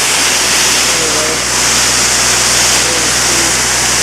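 Ingersoll Rand 175 tow-behind air compressor, driven by its air-cooled three-cylinder Deutz diesel, running with compressed air blasting out of an opened service valve as a loud, steady hiss over the low diesel hum.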